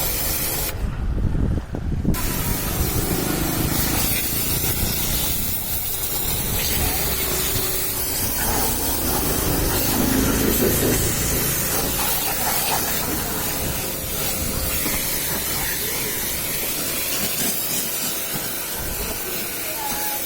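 Water jet spraying steadily onto a vehicle being washed, a hiss across all pitches. The spray cuts out for about a second near the start, then resumes.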